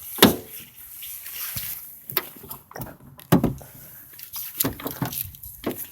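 Irregular knocks and thumps, about five in all and a second or so apart, over a faint hiss. They match a locked door being knocked on or rattled.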